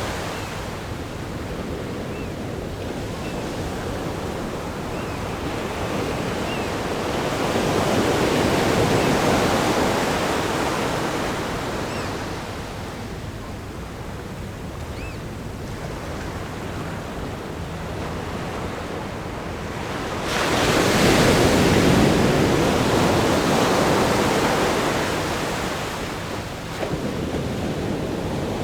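Ocean waves breaking on a rock groin and washing up a sandy beach: a continuous wash of surf that swells about eight seconds in, then a louder wave crashes suddenly about twenty seconds in and slowly dies away.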